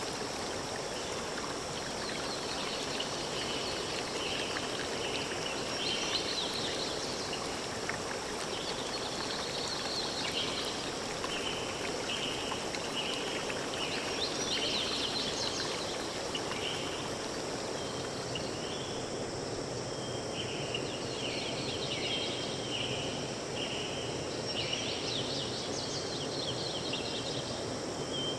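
Forest ambience: birds calling, with runs of short repeated notes and bursts of higher chirps, over a steady rushing background like a stream or wind in the trees.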